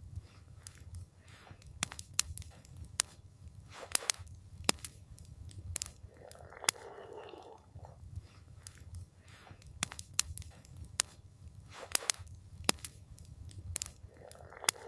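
Wood campfire crackling: irregular sharp pops and snaps over a low steady rumble, with a soft rushing swell about halfway through.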